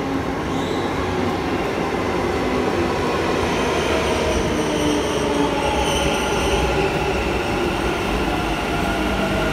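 Bangalore metro electric train running, a steady rumble under a motor whine that slowly falls in pitch.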